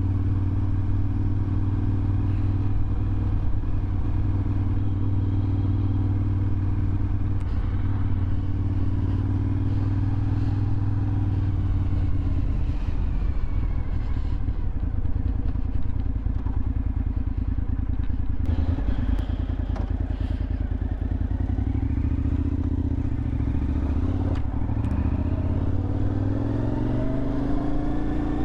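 2001 Suzuki TL1000R's 90-degree V-twin engine running through a LeoVince aftermarket exhaust while being ridden. The engine note holds fairly steady, eases off somewhat in the middle, and rises as the revs climb near the end.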